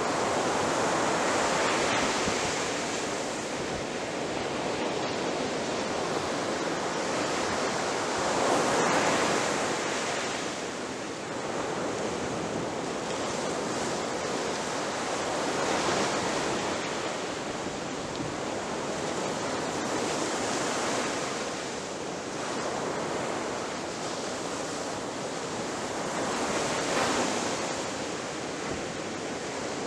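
Ocean surf: waves breaking on the shore in a continuous rushing wash, swelling louder five times as successive waves crash, about every five to seven seconds.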